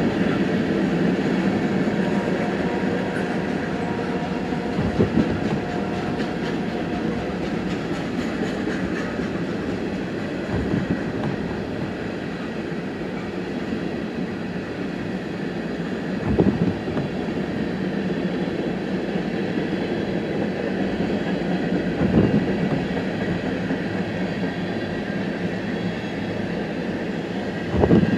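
Train rolling by on the rails in a steady rumble, with a short thump about every five to six seconds.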